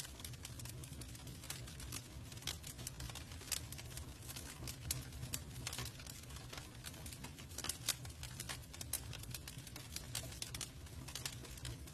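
Campfire of burning wood crackling, with irregular sharp snaps and pops over a steady low rumble of the flames.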